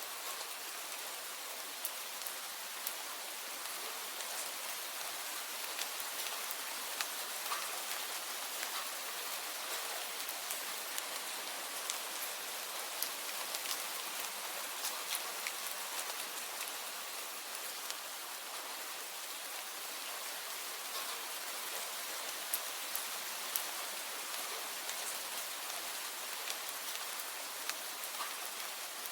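Steady rain falling, an even hiss with many separate drops tapping on a surface.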